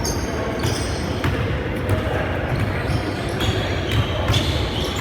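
Live basketball game play: a basketball bouncing on the court with irregular knocks, over the steady low background noise of a gym.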